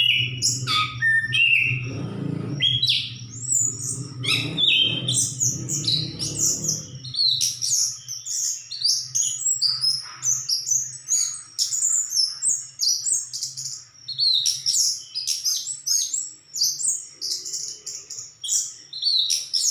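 Chestnut-capped thrush (anis kembang) singing without a break: a rapid run of varied high, sliding notes and trills, over a low steady hum.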